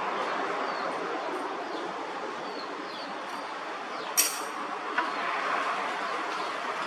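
Metal lathe running with a steady rushing noise, a sharp metallic clink about four seconds in and a smaller click a second later.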